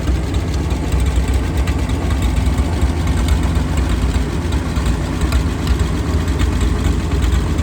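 Wards tractor engine idling steadily, with an even low throb.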